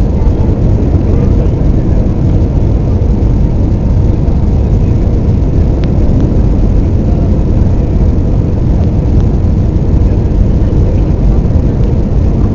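Steady, loud rumble of airflow and jet engines inside an Airbus A320's cabin in flight, with a faint steady hum above it.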